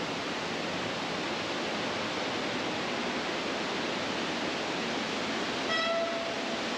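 Steady rushing of a large cascading waterfall. About six seconds in, a short pitched beep or call with clear overtones sounds over it for about half a second.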